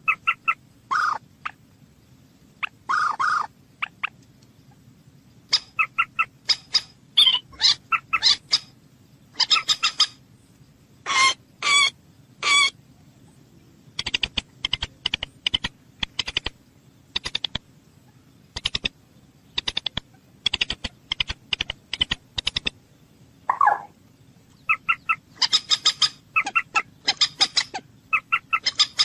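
A bird calling over and over in short, sharp notes, some in quick clusters and a rapid run of clipped notes in the middle, with a few longer, lower calls mixed in. A faint steady low hum sits underneath.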